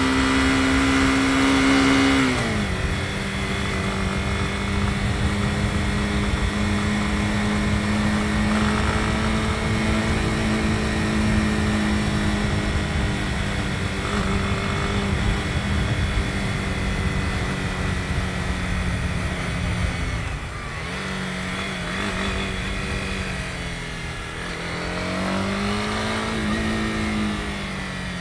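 Honda CB250R's single-cylinder four-stroke engine running on the move. Its note drops about two seconds in, then holds steady, dips briefly later, and rises and falls again near the end, over wind and road noise.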